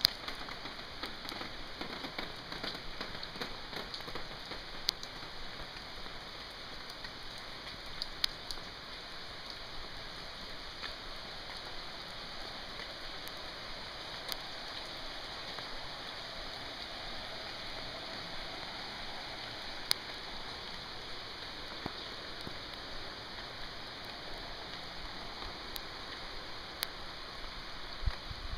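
Steady rain falling on a wet street: an even hiss with occasional sharp ticks of nearby drops.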